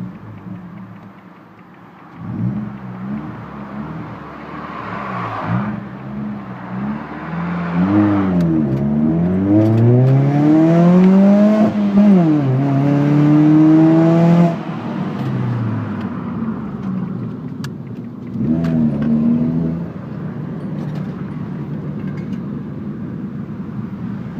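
Ford Fiesta Mk7's engine through a full Milltek decat exhaust with no catalytic converter, idling and being revved. A few short blips come first, then a long rev that climbs, holds high for a few seconds and drops sharply back to idle, with one more short blip near the end.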